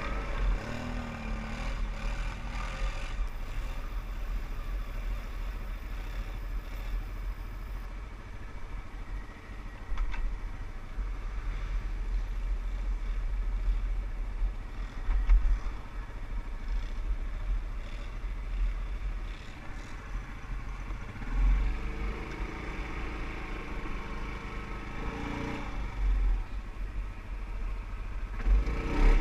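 ATV (quad bike) engine running under way, its revs rising and falling as the throttle is worked, over a steady low rumble.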